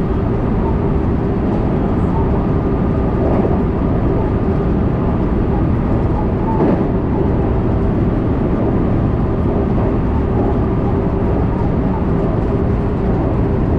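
JR West electric train running at speed, heard from inside the front passenger car: a steady dense rumble of wheels on rail under a constant hum, with a single knock about seven seconds in.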